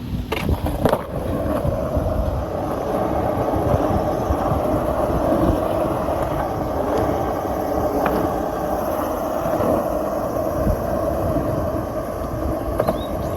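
Skateboard wheels rolling over pavement: a steady rumble with a few sharp clicks as the wheels cross joints or cracks.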